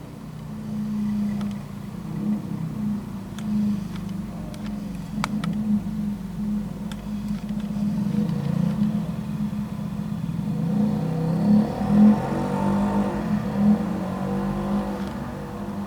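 V8 vehicle engine running with a low, uneven beat, revving and getting louder in the second half, loudest about twelve seconds in.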